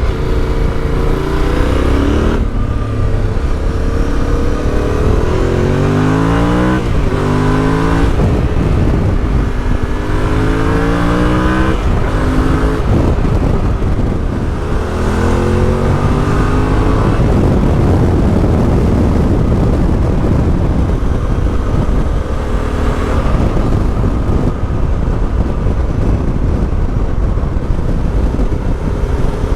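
Yamaha Ténéré 700's parallel-twin engine through an Akrapovic exhaust, accelerating hard through the gears: the pitch climbs and drops back at each upshift several times in the first half, then settles into a steadier run with wind noise and one more short rise.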